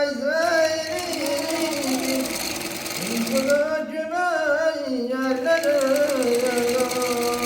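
A slow melody in a man's singing voice, with long wavering held notes, over a sewing machine running steadily.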